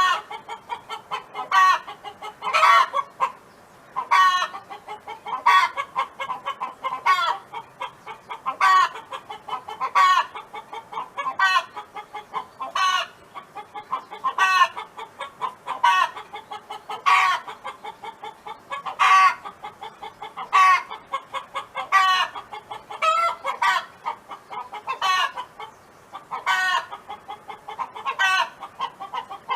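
A hen clucking on and on: a louder call about every second and a half, with quick softer clucks between.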